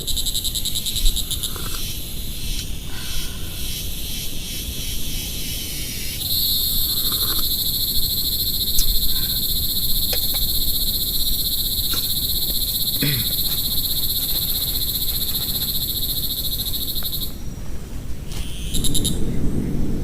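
Frogs calling in a rapid, high-pitched trill over steady rain noise. About six seconds in, one trill takes over, louder and steadier, and it stops near the end. A short burst of calling follows.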